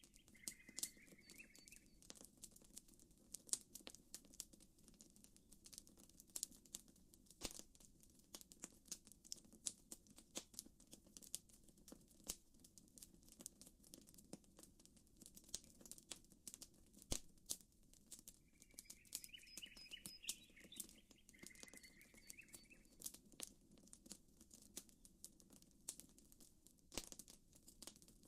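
Campfire crackling, with frequent sharp, irregular pops over a faint steady low background. A small bird twitters briefly near the start and again about two-thirds of the way through.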